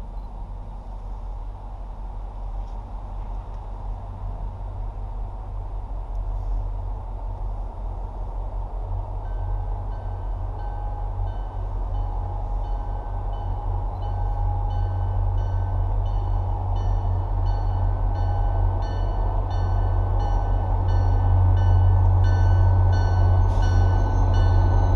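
An MBTA commuter train hauled by an EMD GP40MC diesel locomotive approaches, its deep engine and rail rumble growing steadily louder. From about nine seconds in, a bell rings in steady, evenly spaced strokes as the train nears.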